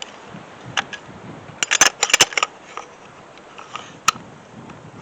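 Sharp clicks and clacks of a Makita X-Lock grinder's tool-free wheel guard being handled and fitted, the release button pressed and the guard seated on the collar. A quick cluster of clacks comes about two seconds in, with single clicks around one and four seconds.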